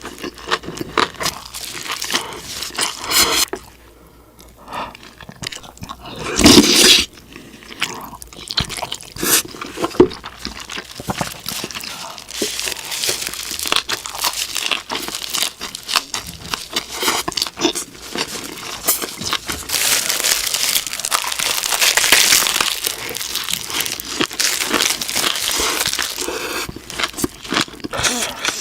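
Close-miked eating: crunchy bites and chewing in a steady stream of crackling clicks, with some crinkling and tearing, and one louder burst of crunching a little before the middle.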